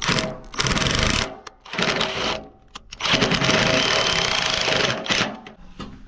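Cordless power drill driving bolts into aluminium pergola headers in three bursts, the last about two seconds long.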